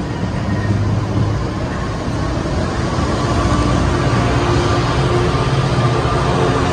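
NJ Transit passenger coaches rolling past close along the platform: a steady rumble of wheels on rail that grows louder toward the end.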